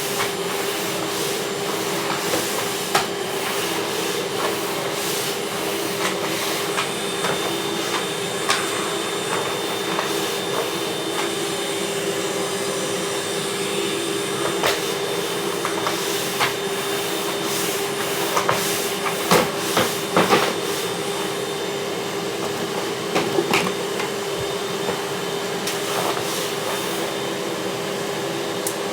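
Vacuum cleaner running steadily with a constant hum, with scattered sharp clicks and rattles of LEGO pieces, several bunched together about two-thirds of the way through.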